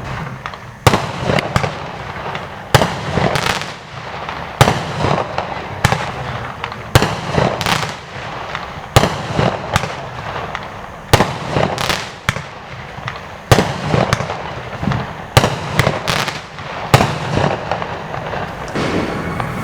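A Stienen 'Stimmungsmacher' firework firing a long run of sharp bangs, roughly one to two a second, with crackling between the shots.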